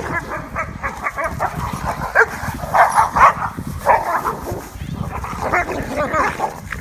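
Dogs fighting, a H'Mông bobtail and a German shepherd: a rapid run of barks and yelps, loudest about two to four seconds in.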